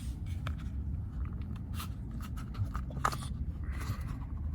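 Light, scattered clicks and knocks of camp gear being handled, over a low steady rumble.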